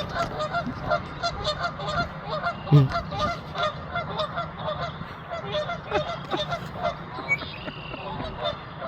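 Many geese honking, short overlapping calls coming several times a second, with one low thump about three seconds in.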